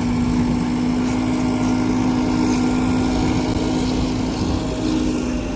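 Heavy diesel engine running steadily, with a held droning note.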